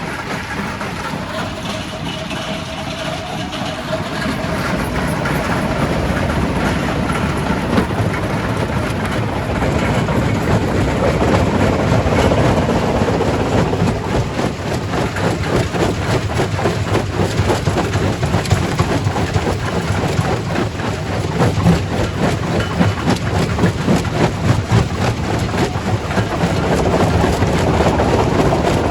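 Primary rock crusher working: a steady heavy machine drone under dense, irregular cracking and clattering of rock being broken. It grows louder about five seconds in.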